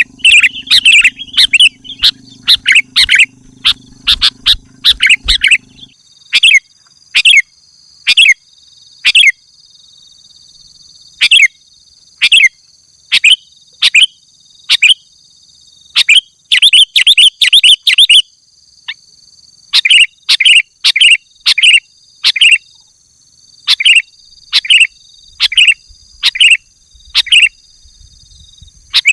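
Sooty-headed bulbul calling over and over: short, sharp chirping notes, often in quick runs of two to four, with brief gaps between the runs. A steady high-pitched whine runs underneath, and a low hum stops about six seconds in.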